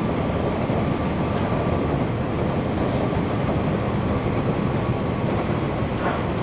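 Steady running noise inside a JR 103 series electric multiple unit (control trailer KuHa 103-170): wheels rumbling on the rails, with a brief sharp click about six seconds in.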